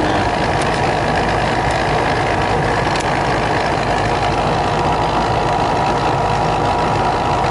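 Outdoor air-conditioning condensing unit running steadily, its compressor and condenser fan giving a steady hum with a faint whine.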